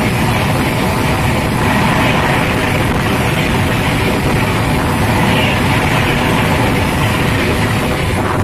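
Indian Railways express train with LHB coaches passing at speed: a loud, steady rush and rumble of wheels on rail and moving air.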